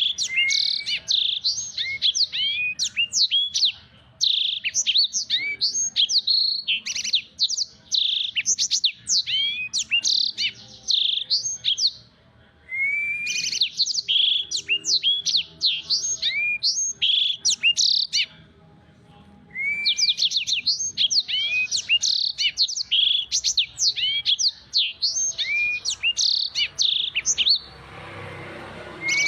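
Black-throated canary (blackthroat) singing: long phrases of rapid, high twittering and trilled chirps, broken by short pauses every several seconds.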